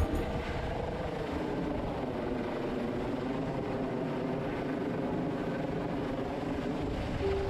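Rescue helicopter running steadily, a constant rotor and turbine engine noise.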